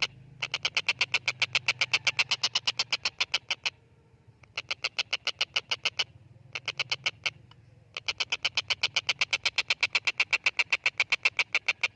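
Stork-billed kingfisher calling in fast runs of sharp, evenly repeated notes, about ten a second. There are four runs with short breaks between them.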